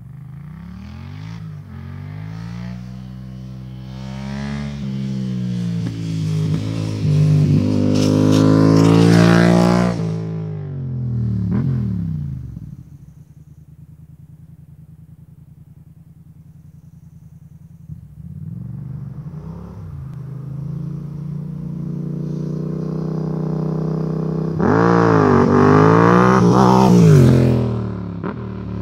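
Yamaha MT-07 parallel-twin engine through an aftermarket MIVV GP carbon exhaust, pulling hard with its pitch climbing and dropping back several times, as at gear changes. It then settles to a lower, quieter drone for a few seconds before climbing loudly once more and falling off near the end.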